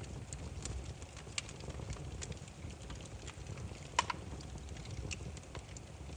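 Burning firewood crackling: irregular sharp pops and snaps over a low, steady rumble, with one louder pop about four seconds in.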